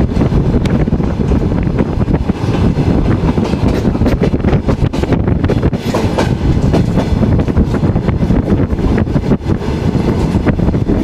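A moving passenger railway carriage: a steady rumble with constant clatter and clicks from the wheels on the track.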